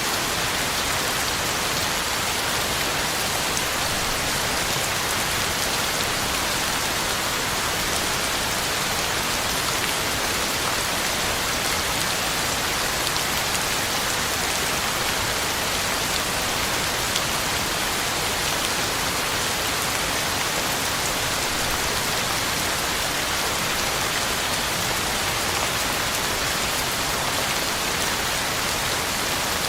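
Heavy rain falling steadily on the ground and on leaves: a dense, even hiss of drops with no let-up and no thunder.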